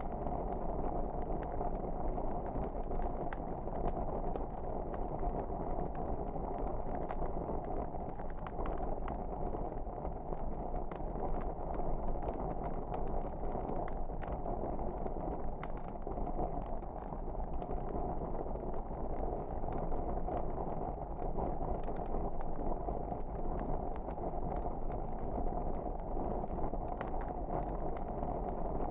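Wood fire crackling: frequent small crackles and pops over a steady low rush.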